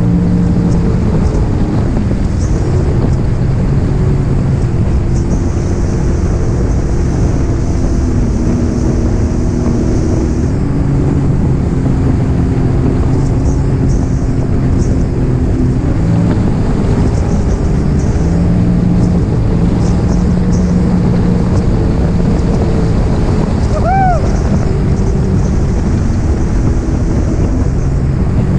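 Personal watercraft (jet ski) engine running under way, its note stepping up and down several times with the throttle. Wind buffets the microphone and water rushes against the hull.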